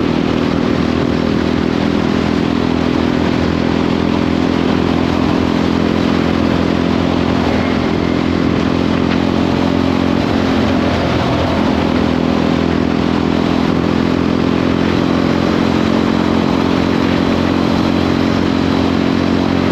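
Jawa 42 single-cylinder motorcycle engine running steadily at cruising speed, with rushing wind and road noise. The engine note dips briefly about eleven seconds in, then settles back.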